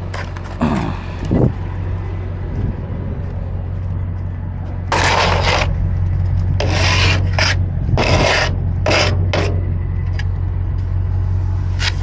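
A hand tool scraping stuck dirt loose in a run of short strokes, about five in quick succession and one more near the end, over a steady low hum.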